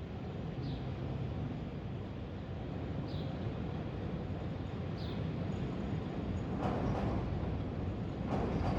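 Steady low rumble of city traffic or machinery, growing somewhat louder and noisier in the last few seconds. Over it, a small bird gives a short falling chirp every two seconds or so.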